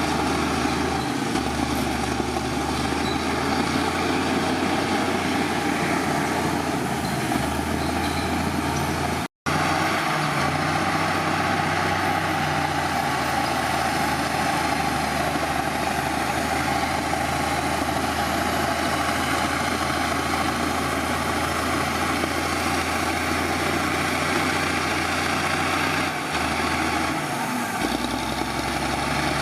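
Heavy diesel earthmoving machinery running steadily, its engine note shifting slightly a few times as the load changes. The sound cuts out for a moment about nine seconds in.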